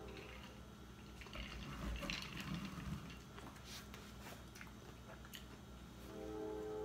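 Close-up chewing of a bite of shrimp po' boy sandwich: small wet smacks and clicks from the mouth. Faint background music comes back in near the end.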